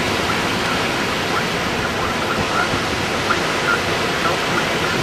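Strong wind blowing hard, heard as a loud, steady rushing noise, with faint short high-pitched chirps scattered through it.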